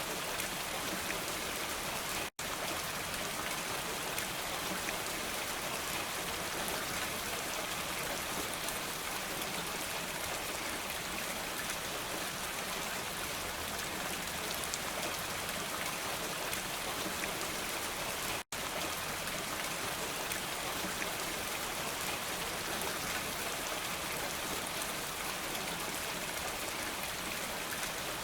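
Steady rain, an even dense hiss with no thunder. The sound cuts out for an instant twice, about two seconds in and again past the middle.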